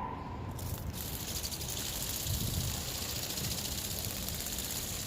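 Toy RC ornithopter's small electric motor and flapping wings buzzing, starting about half a second in. Wind rumbles on the microphone underneath.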